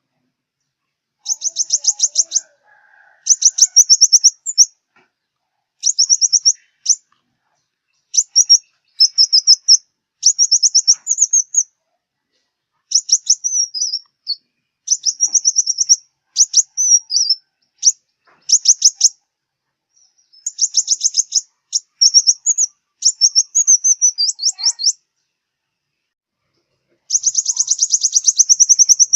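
Sunbird song: high, rapid trilled phrases of about a second each, repeated over and over with short pauses between them.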